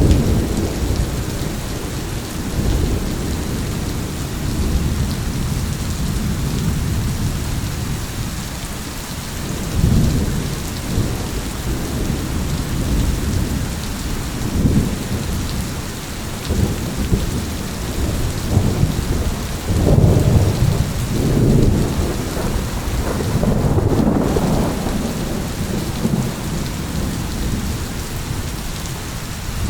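Steady rain with rolling thunder: deep rumbles swell and fade again and again, loudest about ten seconds in and again from about twenty to twenty-five seconds in.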